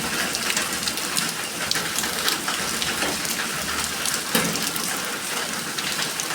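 Rain falling steadily: an even hiss with many separate drops striking a surface.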